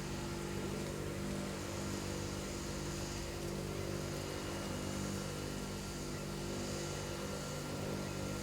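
A motor or engine running steadily, a constant droning hum that holds one pitch.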